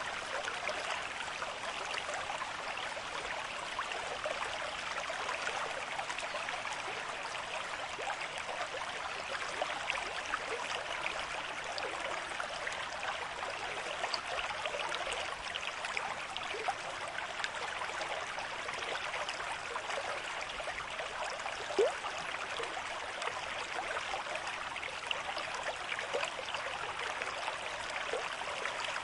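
River stream flowing at a moderate rate: a steady rush of water with many small splashes and trickles, and one brief louder splash a little after twenty seconds in.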